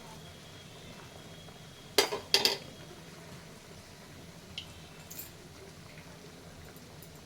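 Two sharp metal clinks of kitchen utensils against a pan, about half a second apart, then a couple of lighter taps, over a faint steady hiss.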